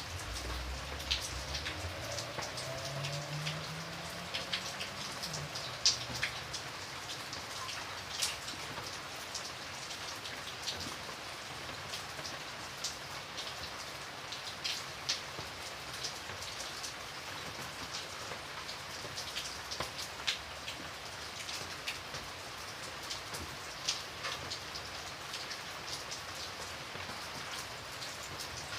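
Steady rain falling, with frequent sharp ticks of individual drops striking a surface close by. A faint low hum rises in pitch during the first few seconds.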